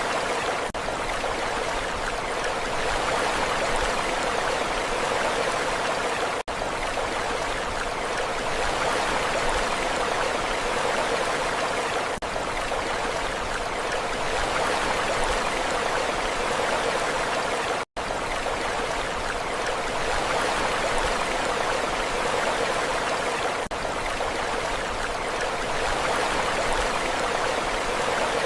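Continuous, steady rushing of water with no distinct wave surges. It drops out for an instant a few times, sharpest about 18 seconds in.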